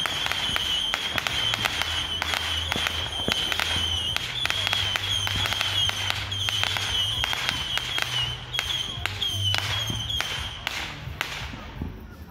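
Consumer fireworks firing: a dense, irregular stream of crackling pops under a steady, wavering high whistle. The whistle cuts off shortly before the end and the crackle thins out.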